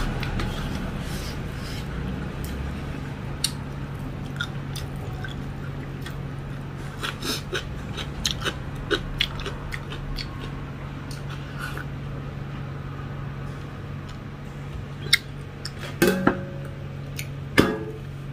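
Mouth sounds of a person eating by hand: chewing and small wet clicks of the lips, over a steady low hum. A few louder sharp clicks come near the end, one with a short ring.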